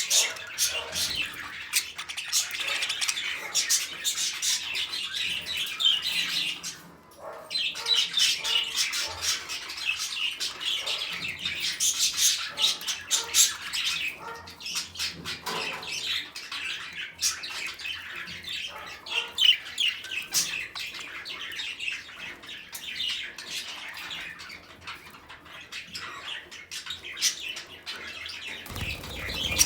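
A flock of small pet parrots, such as budgerigars, lovebirds and cockatiels, chattering with a dense mix of chirps and squawks. There is a brief lull about seven seconds in.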